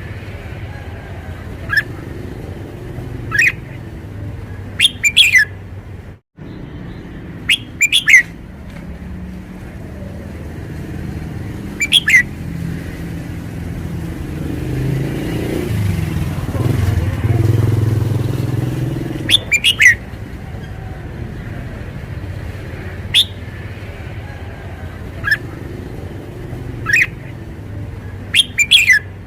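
Red-whiskered bulbul singing short, loud, sharp phrases every second or two, over a steady low rumble that swells about halfway through. The sound cuts out briefly about six seconds in.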